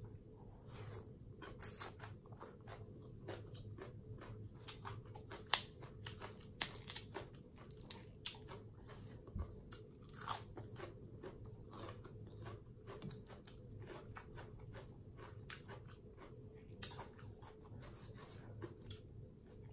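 A person chewing mouthfuls of papaya salad and rice noodles, with many short crunches and wet mouth clicks.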